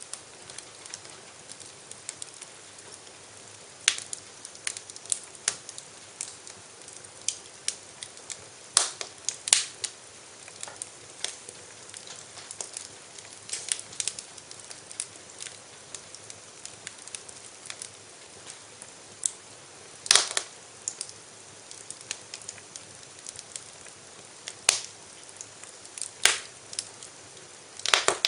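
Wood fire in a fireplace crackling: irregular sharp pops and snaps over a steady soft hiss, with the loudest pops about twenty seconds in and near the end.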